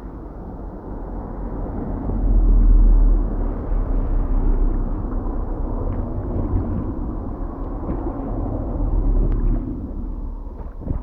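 Rain runoff water running down the road past a blocked gully drain, with a heavy low rumble that swells about two seconds in and again later on.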